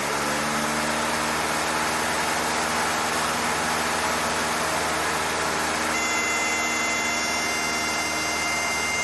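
Cessna 152's four-cylinder engine running steadily at high power in the cockpit for a power-on stall. About six seconds in, the stall warning horn comes on, a steady high tone that holds, signalling that the wing is nearing the stall.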